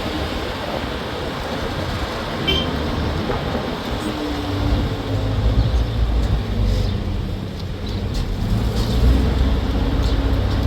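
A motor vehicle's engine running with road noise, its low drone growing heavier about halfway through.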